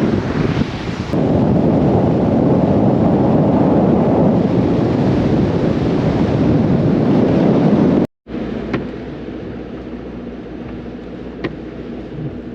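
A pickup truck driving, with loud low road and wind rumble for about eight seconds. It then cuts to quieter, steady road noise with a few light ticks.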